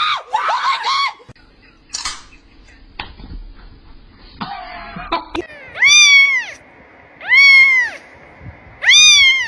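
A cat meowing loudly three times in the second half, each a long drawn-out meow rising and falling in pitch, about a second and a half apart. A person's voice is heard briefly at the very start.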